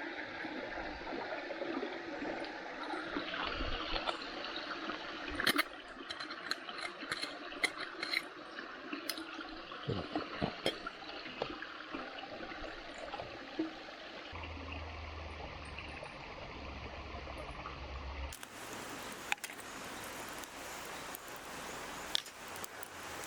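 Water running and trickling in a small stream, with a string of sharp clicks and knocks partway through. Near the end the sound changes abruptly to a brighter, even hiss.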